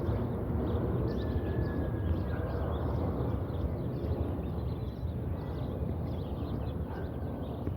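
Low rumble of a Boeing 747-8F freighter's jet engines overhead, slowly easing off, with small birds chirping.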